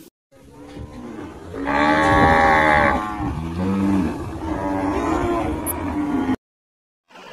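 Cattle mooing: one long, loud moo about two seconds in, followed by several shorter calls, cutting off abruptly near the end.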